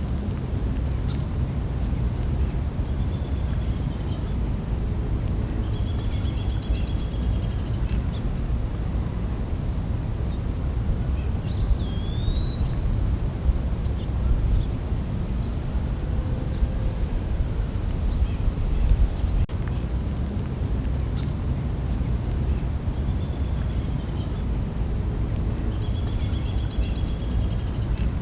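Night forest ambience of insects: a continuous high-pitched insect trill together with crickets chirping in quick, even pulses. Bird calls come in a few times, twice near the start, once with a rising then falling note about twelve seconds in, and twice near the end. A steady low rumble runs underneath.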